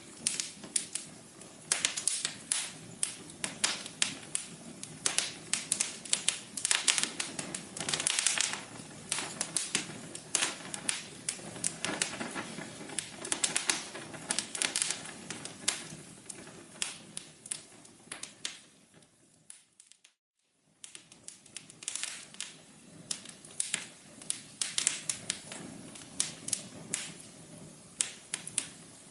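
Wood fire crackling: irregular sharp pops and snaps over a low steady hiss. About two-thirds of the way through it fades out to a second of silence, then comes back.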